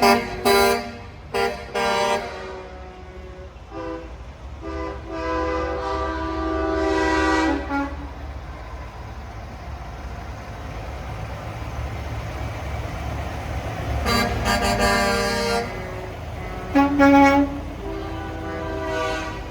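Semi-truck air horns sounding in a string of blasts over the steady low rumble of diesel engines. There are several short toots in the first two seconds, a long blast of about three seconds starting near five seconds in, and more blasts near the end.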